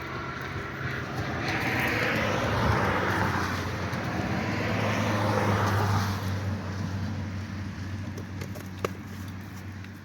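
A motor vehicle going by: engine hum and road noise swell over a few seconds and then fade away. A single sharp click comes near the end.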